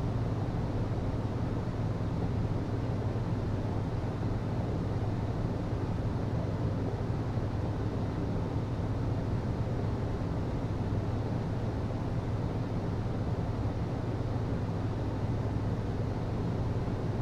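HVAC system running: a steady low hum over an even rush of air, unchanging throughout.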